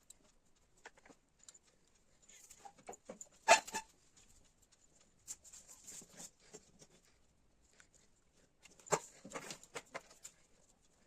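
Scattered light clicks and rustles of cloth and sewing tools being handled, with two sharper knocks about three and a half and nine seconds in.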